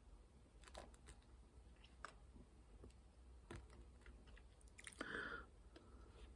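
Near silence: room tone with a few faint clicks and a brief soft rustle about five seconds in.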